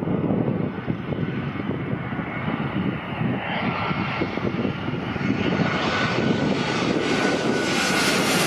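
Jet airliner's engines growing steadily louder as it approaches, with a faint steady whine over the roar. Wind buffets the microphone throughout.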